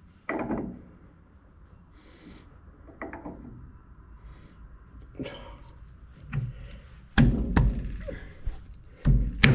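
A series of knocks and thuds from the test fit of the freshly machined differential yoke. A few separate knocks come first, then from about seven seconds in a run of heavy blows about twice a second.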